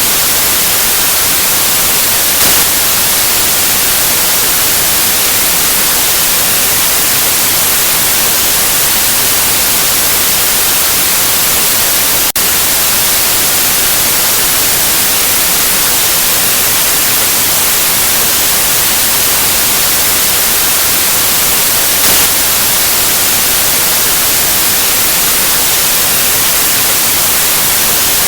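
White noise: a steady, even hiss, brightest in the highs, with a brief dip in loudness about twelve seconds in.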